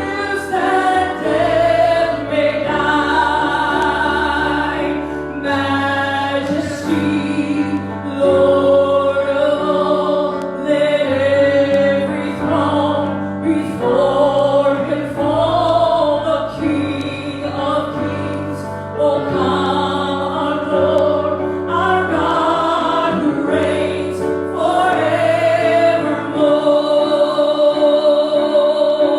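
Worship song: a group of voices singing held, sustained lines over an instrumental accompaniment with a steady, changing bass line.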